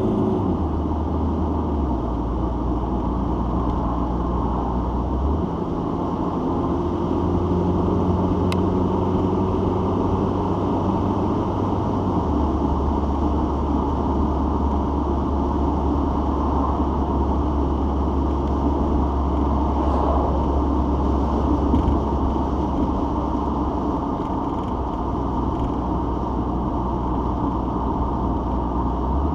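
Citroen XM on the move, heard from inside the cabin: a steady engine drone and road noise. The low engine note shifts to a new pitch several times, about two, five, twelve and twenty-four seconds in.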